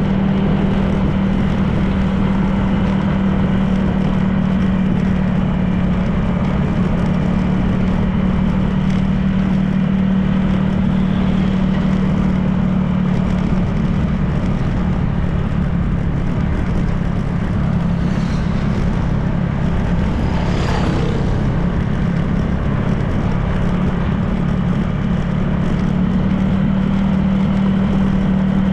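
Honda PCX 160 scooter's single-cylinder four-stroke engine running steadily while riding, with tyre and wind noise. A short gliding higher-pitched sound rises above it about two-thirds of the way through.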